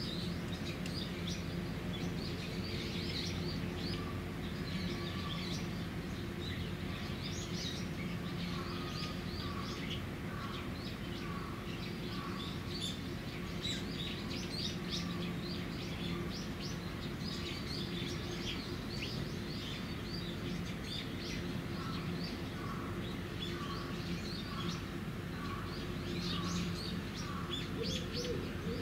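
Small birds chirping in many quick, short notes, with a lower short call repeated at a steady pace from about nine seconds in, over a steady low hum.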